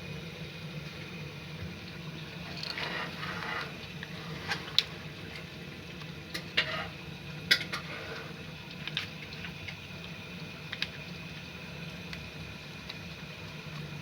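Scattered sharp clicks and knocks, about eight of them, with a short rustle near the start, from parts and tools being handled while a washing machine is taken apart, over a steady low hum.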